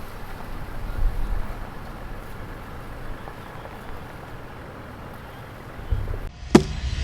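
Low engine rumble under gusty wind on the microphone at a boat ramp. Near the end the sound changes abruptly, with two sharp knocks.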